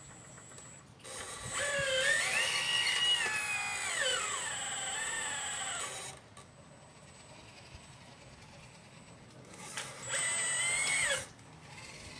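1/12-scale RC model excavator's electric motor whining as it works, its pitch rising and falling: a long run of about five seconds, then a shorter burst of about a second near the end.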